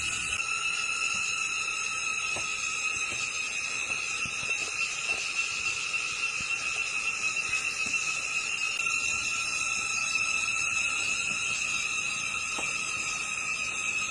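Steady insect chorus: a continuous high-pitched trilling drone, with a few faint clicks.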